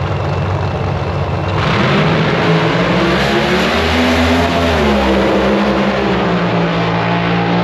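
Pair of Pro Stock drag cars with naturally aspirated V8s making a run down the strip. The engine noise jumps up suddenly about one and a half seconds in, and the pitch drops once around the middle.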